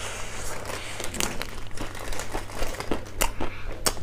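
Close-up chewing of a mouthful of raw leafy greens: crisp, crackling crunches made up of many small clicks.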